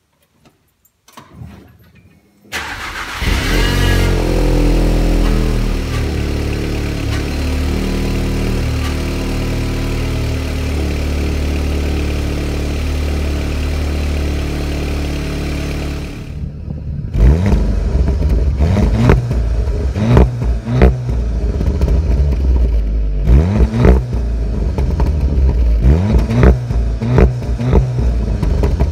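SEAT Leon Cupra 290's turbocharged 2.0-litre four-cylinder through its stock exhaust, cold-started in an underground car park: it catches about two and a half seconds in, flares up, then settles into a steady fast cold idle. From about seventeen seconds the stationary engine is blipped repeatedly, each rev rising and falling quickly.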